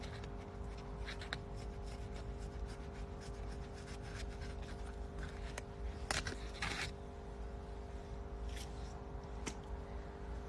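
Faint eating sounds as a person chews strips of raw aloe vera flesh: scattered small wet clicks and a few short rustly bursts, the strongest about six and seven seconds in, over a steady low hum.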